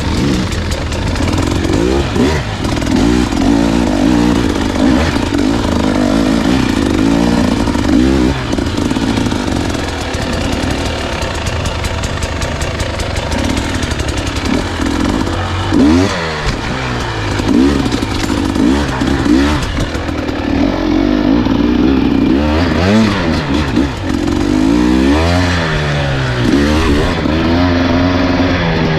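Husqvarna enduro dirt bike engine being ridden on a trail, its pitch rising and falling repeatedly as the throttle is opened and rolled off, with some clatter.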